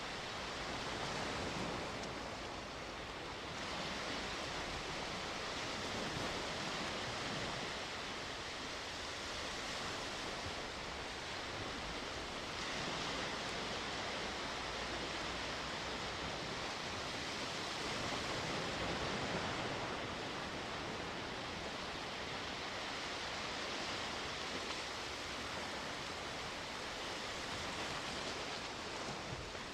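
Sea waves washing onto the shore: a steady surf hiss that swells and eases every several seconds.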